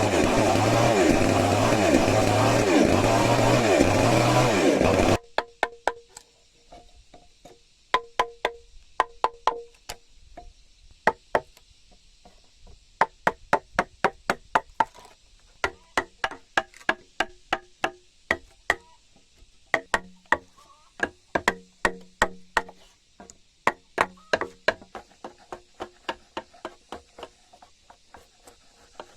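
Chainsaw running under load for about five seconds, then cutting off abruptly. After it comes a long run of sharp, irregular knocks, a few a second, each with a short ringing note, like strikes on timber.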